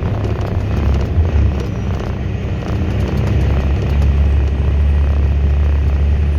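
Inside the cab of a loaded Volvo A25D articulated dump truck under way: a steady low diesel engine drone with vibration and faint rattles, getting louder about four seconds in.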